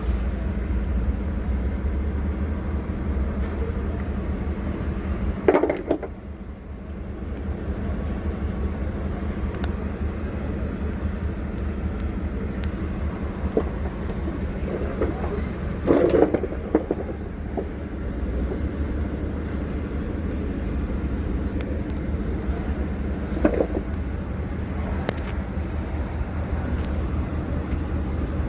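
Eicher Skyline bus diesel engine running steadily, a low even rumble, with a few short louder sounds breaking in about five, sixteen and twenty-three seconds in.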